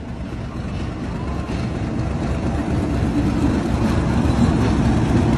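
Diesel locomotive passing close by, a low engine rumble growing steadily louder, with the loaded car-carrier flatcars starting to roll past behind it.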